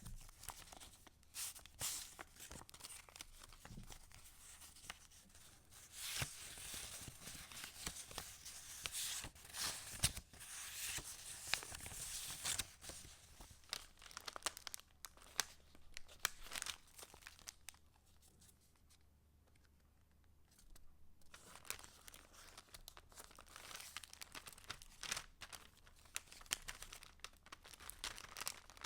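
Paper rustling and crinkling as the pages and paper pieces of a handmade junk journal are handled and turned, with many small crackles and a quieter lull about two-thirds of the way through.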